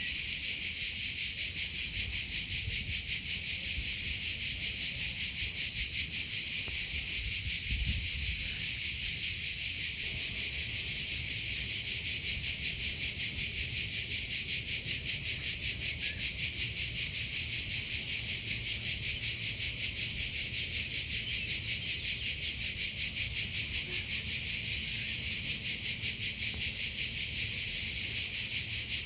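Crickets chirping in a steady, high-pitched chorus, pulsing rapidly and evenly without a break.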